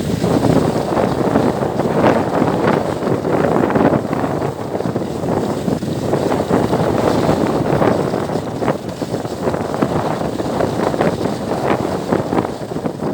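Wind buffeting the microphone: a loud, gusty rush that flutters unevenly throughout.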